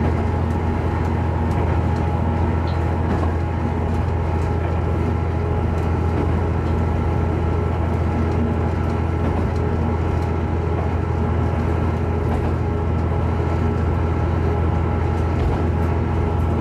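Diesel railcar running steadily along the line: a constant low engine drone mixed with the steady rumble of wheels on rails.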